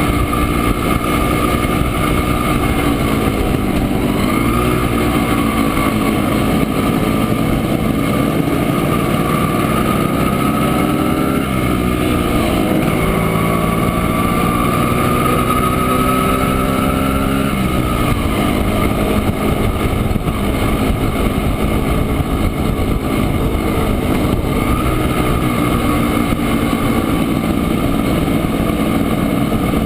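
Montesa Impala Comando 175 cc two-stroke single-cylinder engine running under way, heard from on board. Its pitch climbs as it pulls and drops sharply three times, as at gear changes.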